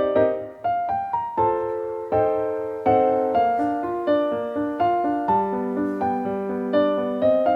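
Background piano music: gentle notes and chords struck about every half second, each ringing out and fading.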